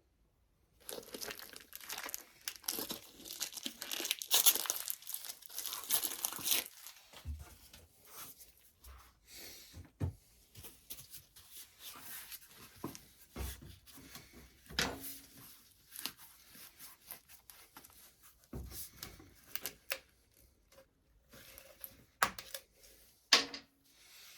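Paper or plastic wrapping crinkling and tearing, densest for the first several seconds, then scattered rustles and a few short knocks of handling.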